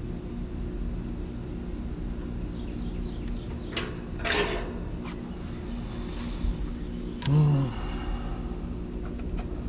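Steady low machine hum with birds chirping in short high notes throughout. There is a brief noisy scrape about four seconds in and a short low tone about seven and a half seconds in.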